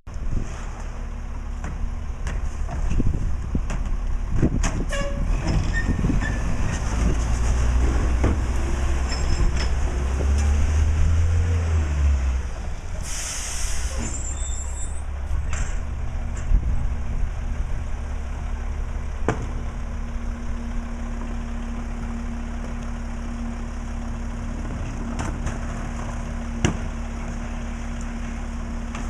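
Mack LE garbage truck's diesel engine running, its rumble swelling for a few seconds before a short hiss of released air from the air brakes about 13 s in. Scattered knocks and bangs sound throughout, and a steady hum comes in past the middle.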